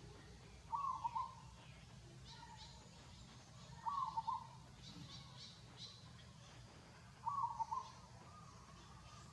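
A short animal call repeated three times, about three seconds apart, each a brief run of a few quick pulses over a steady low hum.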